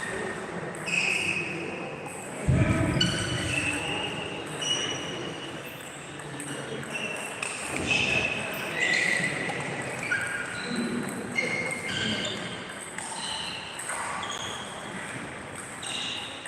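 Table tennis hall during play: short high squeals at changing pitches, typical of rubber-soled shoes on a sports floor, come again and again, with light ball clicks and a single low thump about two and a half seconds in.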